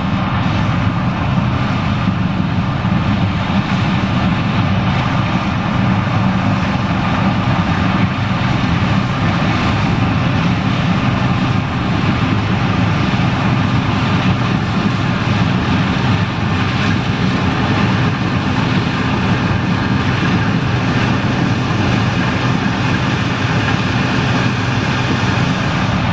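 John Deere 9870STS combine running steadily while harvesting corn: a constant engine drone with an even mechanical noise over it.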